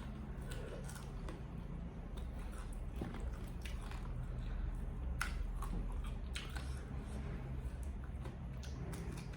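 A person chewing food close to the microphone: scattered soft wet mouth clicks over a low steady hum.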